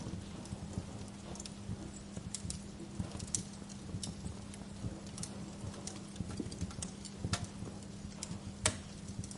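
Wood fire crackling, with irregular small pops and snaps over a low steady rumble and hum. Two sharper pops stand out near the end.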